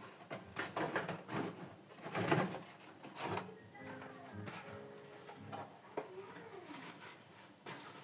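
Cardboard box and packaging being opened and handled: rustling, tearing and knocks, loudest in the first few seconds. After that a faint, steady tonal sound holds for a second or two.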